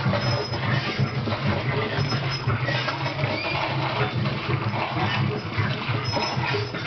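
Large meat-grinder Halloween prop running: a steady low hum under a dense, jumbled mix of noisy sound.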